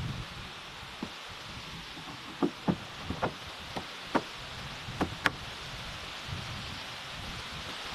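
About nine irregular knocks, as of wood being struck or handled during building work, over a few seconds, with steady rain noise behind them that carries on after the knocks stop.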